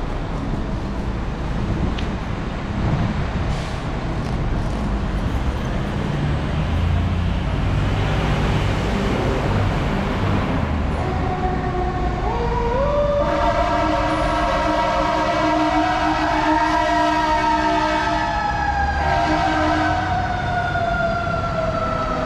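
A fire engine's siren winds up about twelve seconds in, climbing in pitch for several seconds, then slowly falls. Before that, the truck's engine rumbles as it moves off.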